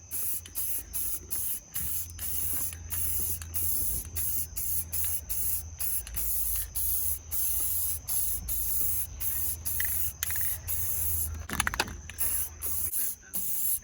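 Aerosol spray paint can being sprayed in short, repeated bursts of hiss, about two a second, as a wheel is painted. A steady low hum runs underneath and stops near the end.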